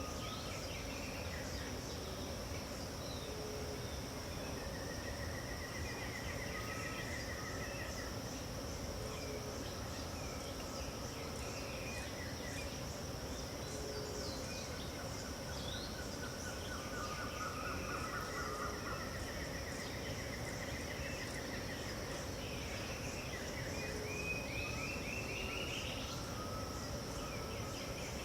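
Dawn chorus of birds over a steady, high insect drone. Several birds call: trills of evenly repeated notes, a rising run of notes near the end, and short low notes repeated every few seconds.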